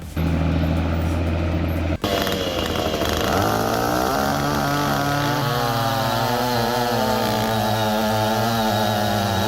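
A steady low engine drone for about two seconds, then an abrupt change to a chainsaw running. The saw's pitch rises and then wavers unsteadily, as under cutting load.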